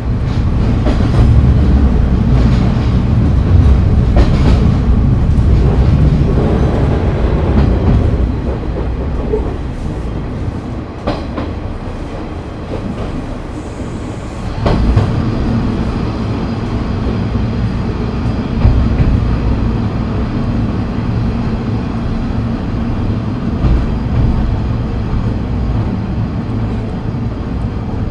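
KiHa 30 diesel railcar (DMH17-type diesel engine) running, heard from inside the car: a steady low rumble of engine and wheels on rail. It is heavier for the first several seconds, eases off about nine seconds in, then picks up again, with a few sharp knocks along the way.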